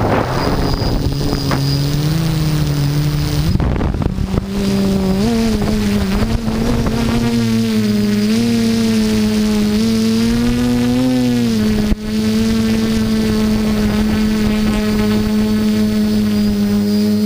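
Quadcopter's electric motors and propellers whirring in a steady hum, the pitch wavering up and down as the motors adjust, then holding level from about twelve seconds in. Wind buffets the microphone heavily in the first few seconds.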